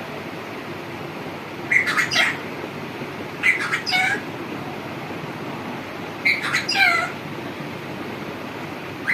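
An animal calling in three bouts of short, high-pitched calls that fall in pitch, a couple of seconds apart, over a steady background hiss.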